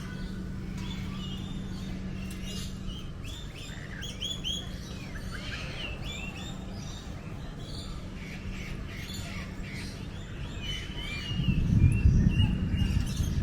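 Songbirds singing and chirping, with many short whistled notes and quick down-slurred calls repeating throughout. Near the end a loud low rumble comes in over the birdsong.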